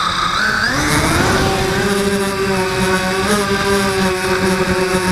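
Blade 200QX quadcopter's motors and propellers spinning up, their whine rising in pitch over the first second or so, then holding steady.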